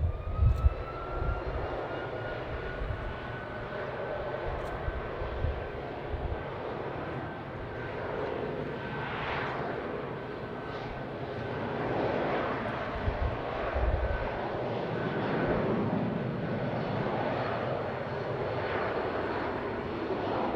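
Jet airliner engines running: a whine that rises in pitch over the first couple of seconds, then holds steady over a continuous rumble.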